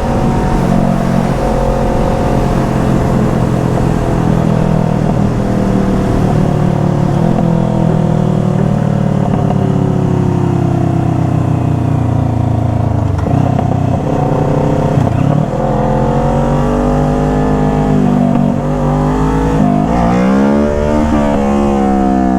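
Motor vehicle engines running and revving, their pitch slowly sinking and rising, with a quick rev up and down about twenty seconds in.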